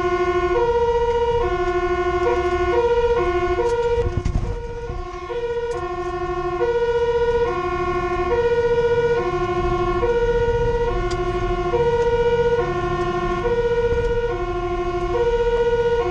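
Fire engine's two-tone siren, alternating between a lower and a higher note about once a second, heard from the truck itself, with engine and road rumble underneath. The rumble swells briefly about four seconds in.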